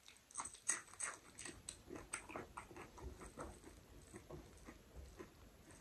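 Close-up eating sounds: wet chewing and lip smacks of a mouthful of rice and spinach dal, with short irregular clicks several times a second, and the soft squish of rice being mixed by hand.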